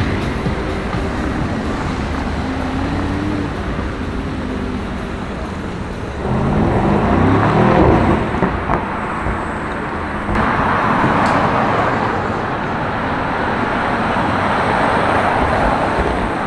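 City street traffic with cars passing. About six seconds in, a car accelerates past, its engine note climbing in pitch; from about ten seconds the sound of passing traffic grows louder.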